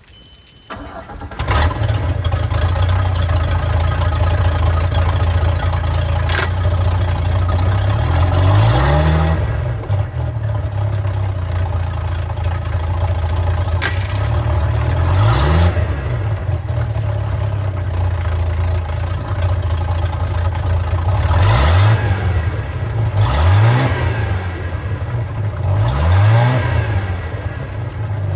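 MerCruiser 4.3 MPI V6 engine of a Bayliner 195 SE bowrider starting about a second in, then running at a steady idle with several short throttle blips that rise and fall in pitch.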